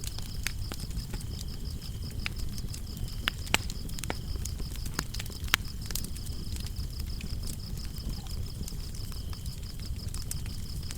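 Wood fire crackling with scattered sharp pops, two louder ones about three and a half and five and a half seconds in, over a low rumble. Crickets chirp steadily throughout in a high, rapid pulse, with a second, lower cricket joining on and off.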